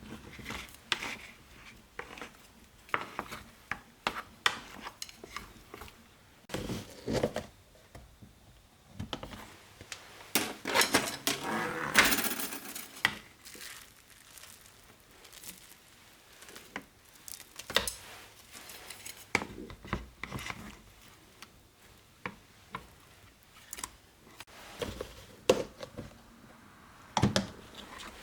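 Kitchen utensils and dishes clinking and knocking in scattered, irregular handling sounds, with a busier stretch of scraping and clattering about ten seconds in.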